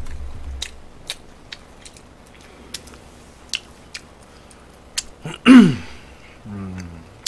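A man chewing food, with scattered small wet mouth clicks and smacks. About five and a half seconds in comes a short loud vocal sound falling in pitch, followed by a brief low hum.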